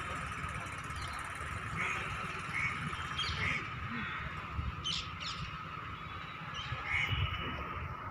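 Small birds chirping now and then over a low steady rumble and a faint steady high tone.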